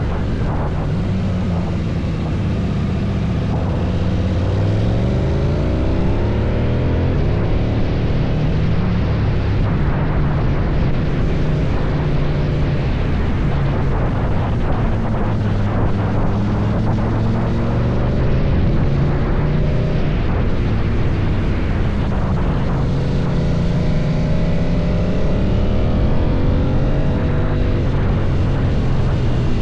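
KTM 790 Duke's parallel-twin engine through an Akrapovič exhaust, running continuously with revs rising and falling. The pitch climbs over the first few seconds, holds, eases off, then climbs again near the end.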